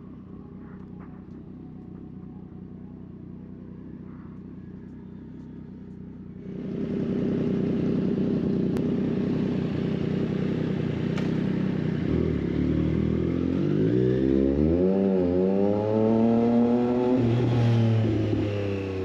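A Triumph Street Triple 765 RS's inline three-cylinder engine running through a Racefit Growler full exhaust. It ticks over low for about six seconds, then gets suddenly louder as the bike moves off with wind noise. The revs then rise and fall several times before dropping back near the end.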